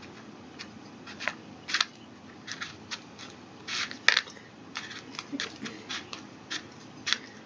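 Light, irregular clicks and scrapes of a plastic candy-kit tray being handled while candy dough is pressed into its moulds, with one sharper click about four seconds in.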